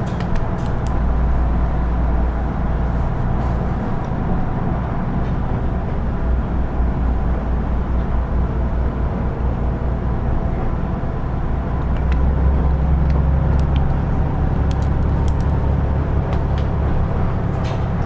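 Running sound of a KiHa 110-series diesel railcar heard inside the cabin: a steady low diesel drone under the floor with a constant mid-pitched hum and faint ticks. The drone swells slightly about twelve seconds in.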